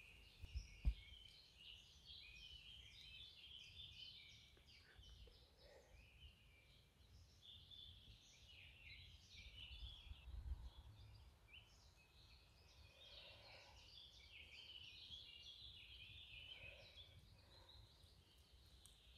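Faint woodland birdsong, many small birds chirping in short, overlapping calls, over a low rumble, with a soft thump about a second in.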